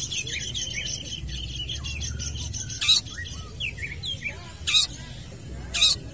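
Long-tailed shrike (cendet) singing hard: a fast run of short chattering and warbling notes, broken by three loud harsh screeches.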